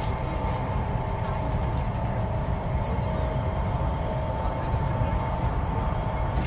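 Steady low rumble of a Chinese high-speed train running at speed, heard inside the passenger car, with a thin steady whine above it.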